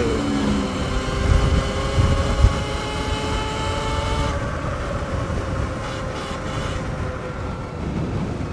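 Sur-Ron X electric dirt bike's motor whining while riding, its pitch rising slightly and easing off about four seconds in, over wind rumble on the microphone. A few low bumps come between one and two and a half seconds in.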